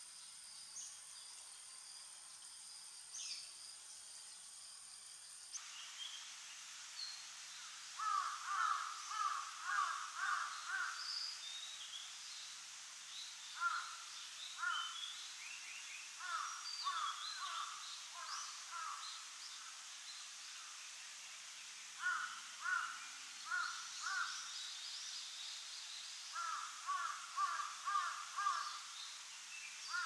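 Outdoor bird calls: a bird calling in quick runs of five or six notes, five runs with pauses between, starting about eight seconds in, with fainter high chirps of small birds behind.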